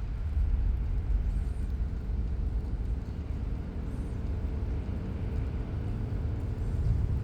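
Firewood fire burning with a steady low rumble and no sharp crackles.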